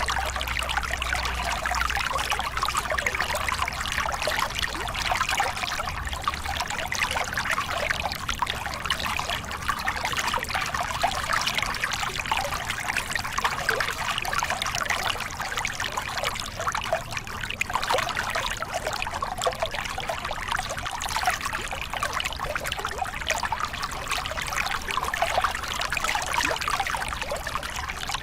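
Small river cascade: water pouring and splashing over rocks in a steady, even rush.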